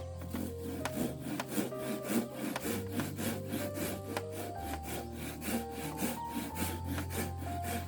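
A handsaw cutting through wood in quick back-and-forth strokes, about three a second, over steady background music.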